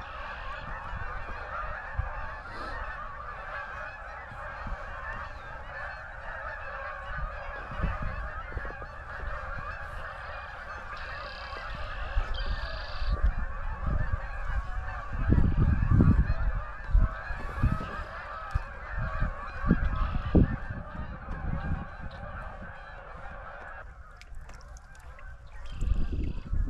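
A large flock of waterfowl calling all at once in a dense, continuous chorus of overlapping honks, which cuts off a few seconds before the end. Low rumbles and thumps on the microphone come and go under it, heaviest around the middle.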